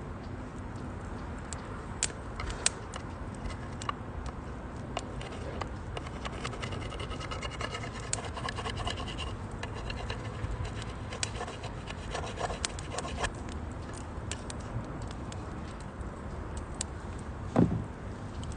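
Wood fire burning in a compact stainless chimney-style fire stand, crackling with irregular sharp pops over a steady low rush of flame. A single heavier thump comes near the end.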